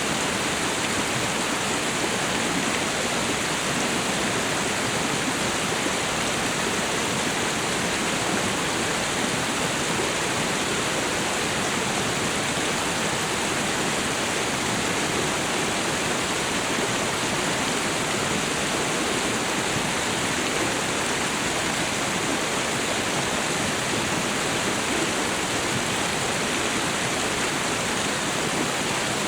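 Waterfall and river water rushing in a steady, unbroken roar of falling water.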